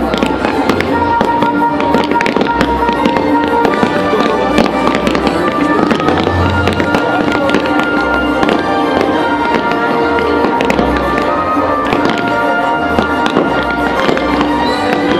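Fireworks bursting and crackling in quick succession, with deep booms now and then, over the show's music from loudspeakers, whose notes are held.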